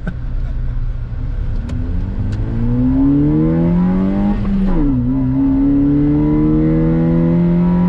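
Honda Jazz petrol engine pulling hard under acceleration, its pitch climbing steadily, then dropping sharply about five seconds in as the manual gearbox is shifted up, and climbing again in the next gear.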